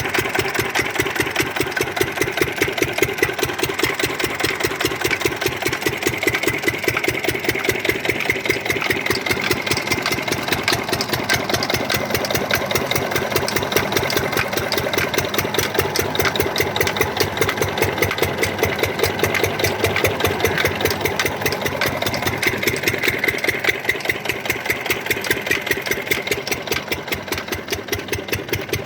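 Field Marshal 10 hp single-cylinder diesel engine running steadily with a rapid, even beat while driving a 4x3 water pump, a little quieter in the last few seconds.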